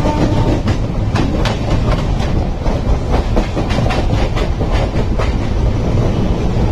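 Passenger train coaches passing close by: a loud, continuous rumble with the wheels clattering irregularly over rail joints. The last of a train horn fades out in the first half second.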